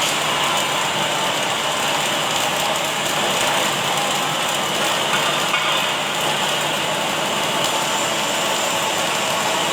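Automatic arc welding machine running: a steady crackling hiss.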